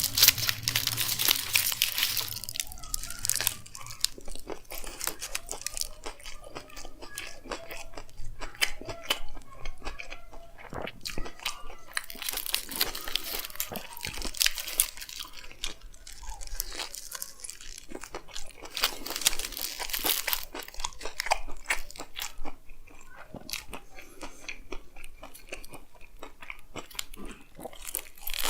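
Close-miked biting and chewing of a chicken frankie (a flatbread wrap rolled around chicken), with irregular wet mouth clicks and crackles, busiest in the first couple of seconds.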